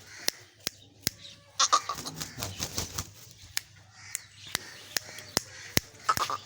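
Aseel rooster clucking and shuffling, densest from about one and a half to three seconds in, among a string of sharp clicks repeating about every half second.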